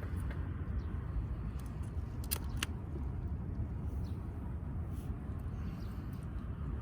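Firewood burning in a wood grill, crackling with scattered small clicks and two sharp pops about two and a half seconds in, over a steady low rumble.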